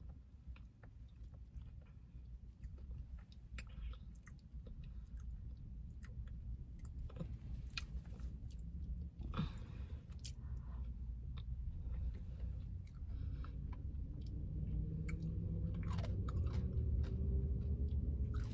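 Close-up chewing and biting of an ice cream Blizzard with crunchy toffee and caramel pieces, with scattered small clicks. A low rumble grows louder over the second half.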